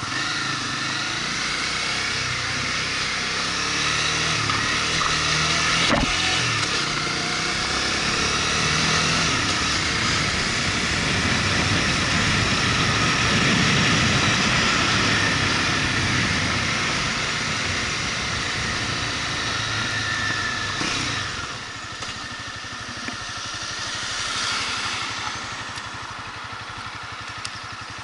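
Motorcycle engine running under way, heard from the bike, with wind and road noise over it. The engine pitch steps up and down in the first part, the rush of wind builds to its loudest about halfway through, and the whole sound drops back a little near the end.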